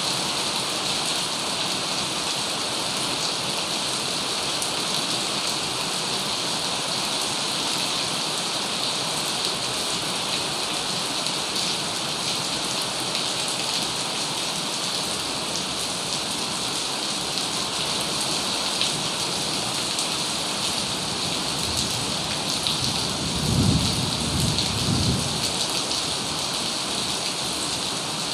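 Heavy rain falling steadily, with a low rumble of thunder lasting a few seconds near the end.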